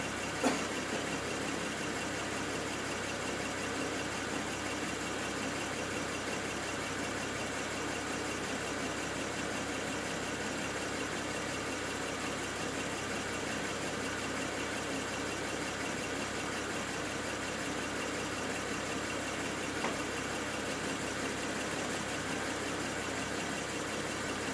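BMW N54 twin-turbo straight-six idling steadily while it misfires at idle, with a sharp click about half a second in.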